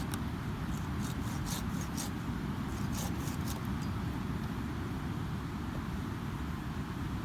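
Wood fire crackling, with a run of sharp snaps in the first few seconds, over a steady low rumble of ocean surf.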